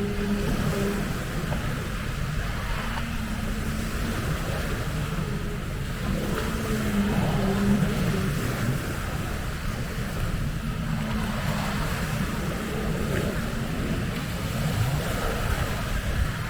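Racing jet ski engines running out on the water, their tones coming and going, over breaking waves and wind buffeting the microphone.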